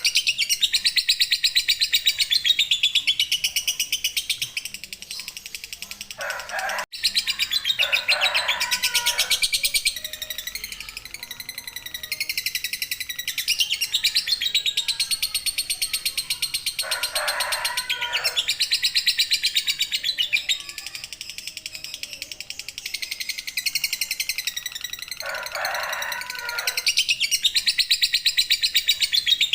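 Lovebird's long 'ngekek' chattering song: runs of very rapid, high-pitched notes lasting several seconds each, broken by short pauses. A few lower-pitched bursts come in briefly, about 6, 8, 17 and 26 seconds in.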